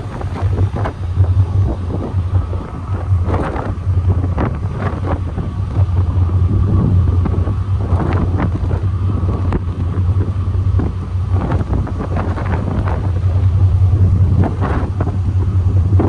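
Ferry running at cruising speed: its engines drone steadily and low, while wind buffets the microphone in irregular gusts.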